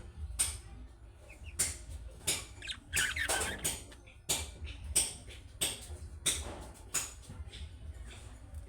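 Budgerigars chattering: an irregular string of short, sharp chirps and clicks, with a brief warbling passage about three seconds in, over a steady low hum.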